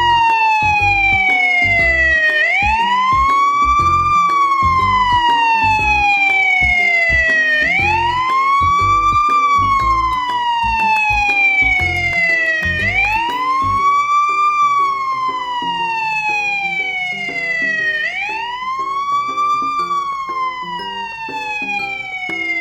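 Electronic wailing siren: its pitch sweeps quickly up, then slowly down, repeating about every five seconds. A low, regular beat runs underneath and fades out about halfway through.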